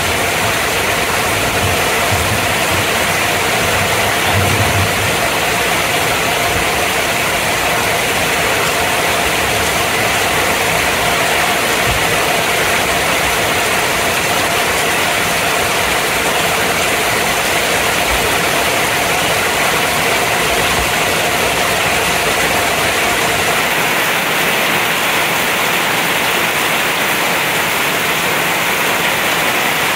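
Heavy thunderstorm rain pouring down steadily, with a low rumble that fades out about five seconds in.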